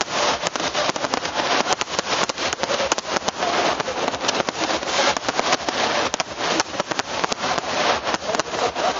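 Fireworks display: a dense, continuous crackle of many rapid small bursts and pops.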